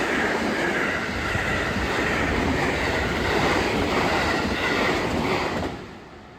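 Train running along the tracks, a steady loud rush of wheel-on-rail noise with some clickety-clack. The sound dies away quickly in the last second.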